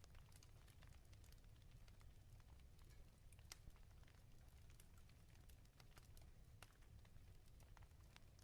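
Faint wood fire crackling in a fireplace: irregular sharp pops and ticks, a few louder ones, over a low, steady rumble.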